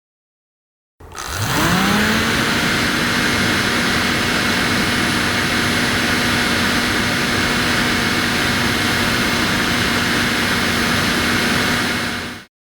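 Small DC fan motor of a mini air conditioner switching on and spinning up, its whine rising quickly about a second in and then holding steady over a rush of blown air, until it cuts off suddenly near the end.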